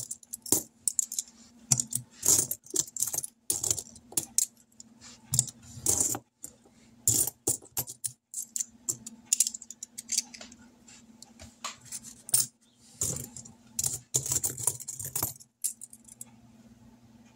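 Loose coins clinking and jingling as they are handled and sorted by hand, in quick irregular clusters of small metallic clicks, over a faint steady hum.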